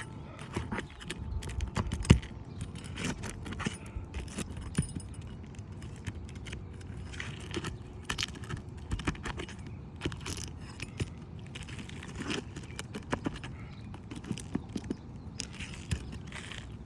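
Hand tools working asphalt shingles loose on a garage roof: irregular metallic clinks, taps and scrapes, with a few sharper knocks.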